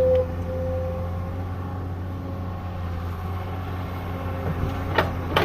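Excavator engine running steadily, with a higher steady tone over it in the first second or so and two sharp knocks near the end.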